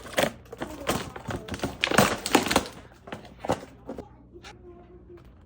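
Irregular knocks and thuds in a small room, a quick run of them loudest about two seconds in, dying away to quiet handling noise in the last second or so.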